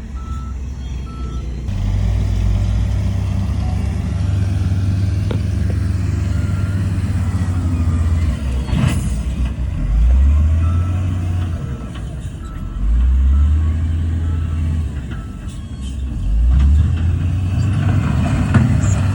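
Heavy diesel earthmoving machinery working, the engine note rising and falling under load. A reversing alarm beeps in short repeated tones early on and again around the middle, and a brief hiss-like burst comes about halfway through.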